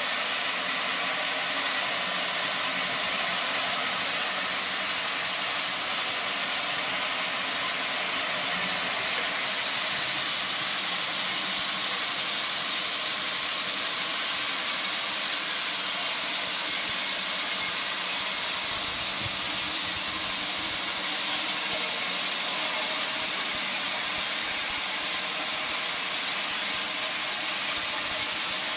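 Sawmill saw running steadily, a continuous even hissing noise with no breaks or changes.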